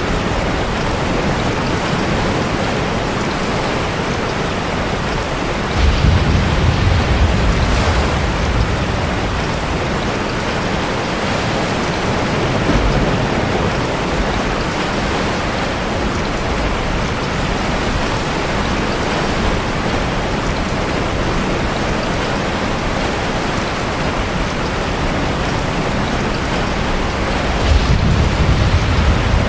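Steady heavy rain with pounding surf, as heard from a sea cave. Deep low rumbles swell up about six seconds in and again near the end.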